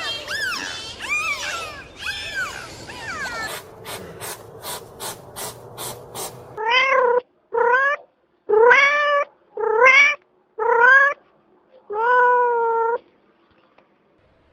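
A cat meowing six times in a row, each call rising at the start and then holding. Before the meows come a few high arching squeals and then a run of sharp clicks, about three a second.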